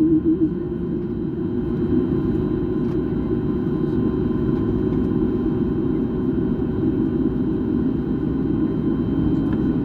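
Jet airliner cabin noise heard from a passenger seat: a steady low rumble of the engines and airframe. A steady hum fades out in the first half second.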